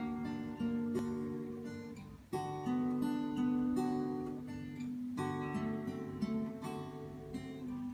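Acoustic guitar playing the intro of a song: strummed chords that ring on, with a new chord struck every two to three seconds.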